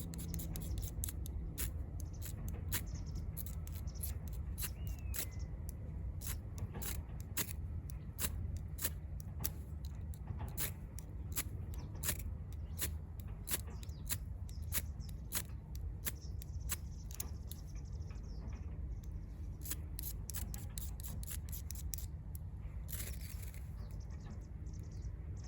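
Small wood fire crackling in a portable wood stove, with irregular sharp pops about one or two a second over a low rumble.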